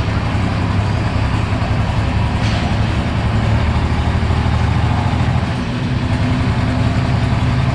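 Diesel pulling truck engine running loud and steady at a fairly constant speed.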